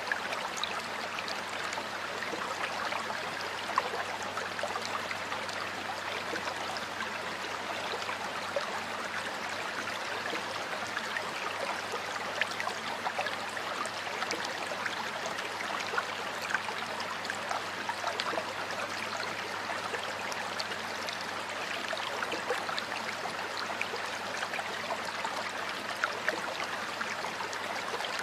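Stream water flowing and splashing over stones, a steady babble with small sharper splashes here and there.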